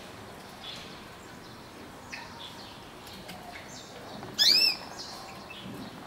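Small birds chirping, with faint short calls scattered throughout and a loud burst of quick arched chirps about four and a half seconds in.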